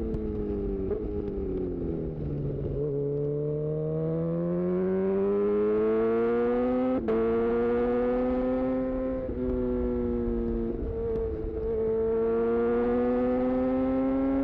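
2018 Honda CB1000R's inline-four engine through a full aftermarket Black Widow exhaust, under way on the move. Engine speed falls over the first couple of seconds through a couple of gear changes, then rises under acceleration until a sharp crack about seven seconds in marks a quick gear change. It holds, eases off and shifts again, then climbs once more near the end.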